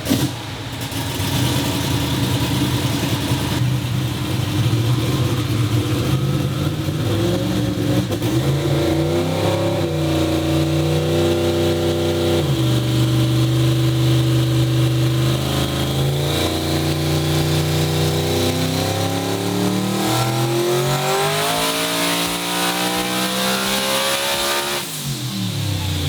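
Truck engine making a full-throttle pull on a hub dyno: the revs climb, drop back at two gear shifts, then climb steadily through a long top gear, with a rising high whine joining in, before the throttle is lifted near the end.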